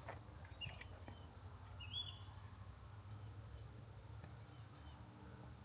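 Faint outdoor birdsong: a few short chirps and tweets from small birds, over a steady high thin tone and a low background rumble.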